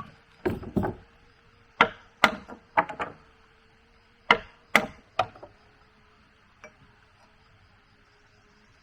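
A hand tool striking wood: about nine sharp knocks in uneven pairs and groups, stopping a little past the middle.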